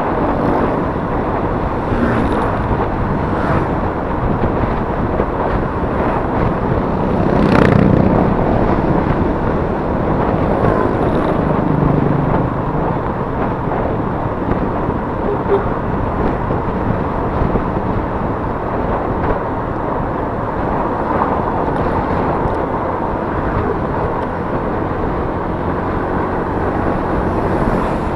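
Steady riding noise from a Yamaha Mio S 125 scooter, heard from a chest-mounted action camera: its engine and wind rushing over the microphone, with traffic around it. The noise swells louder for a moment about a quarter of the way in.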